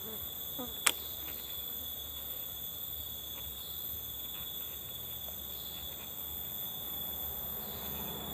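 Steady high-pitched chorus of forest insects, with a single sharp click about a second in.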